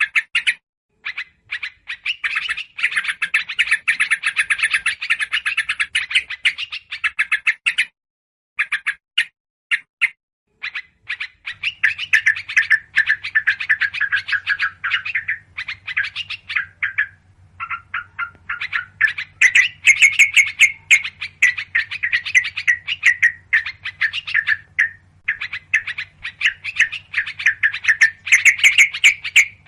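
Yellow-vented bulbuls giving rapid, agitated chattering calls, with higher, thinner chirps of small birds over them, as played from a bird-lure recording. The chatter runs in dense stretches with brief pauses, and a faint low hum comes in about twelve seconds in.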